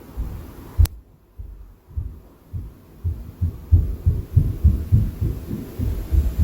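Low, dull thuds of impact noise carried through the ceiling from the apartment upstairs. There is a single sharp click about a second in, then a short lull, then a quickening run of heavy thumps, about three or four a second.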